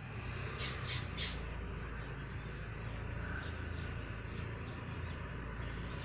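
Pet parrot giving three short, sharp squawks in quick succession about a second in, then a few fainter calls, over a steady low hum.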